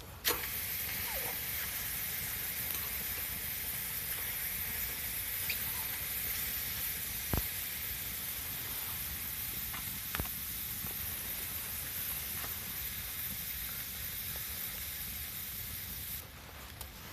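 A steady, even hiss that starts suddenly and cuts off suddenly about sixteen seconds later, with a few faint clicks and knocks over it.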